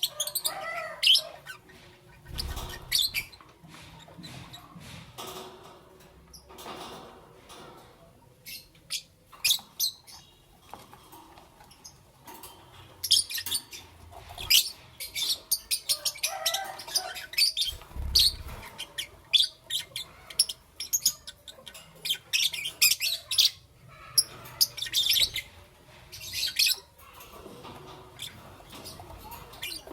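Lovebirds chirping: rapid clusters of short, shrill high chirps with brief pauses between them. Two low thumps fall in among them.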